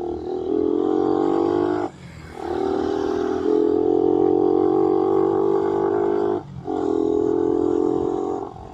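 Suzuki Raider 150's single-cylinder engine pulling under throttle, with two brief drops in sound where the throttle closes, about two seconds in and again near the end, as for gear changes.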